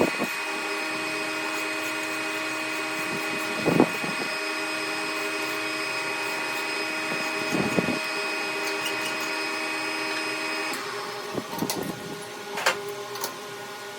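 A power tool's motor running with a steady whine, with a short knock about every four seconds. It shuts off about eleven seconds in, followed by scattered clicks and knocks of metal handling.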